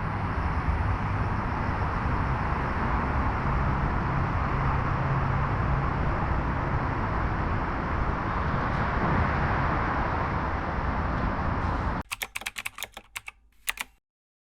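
Steady outdoor city ambience along the riverside, an even rush of distant traffic with a low hum, which cuts off abruptly about twelve seconds in. A quick run of sharp clicks follows for about two seconds, then silence.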